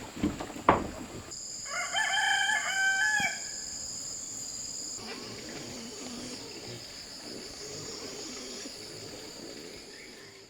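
A rooster crows once, about two seconds in, lasting roughly a second and a half. It comes after two sharp knocks near the start. A steady high-pitched shrill runs underneath.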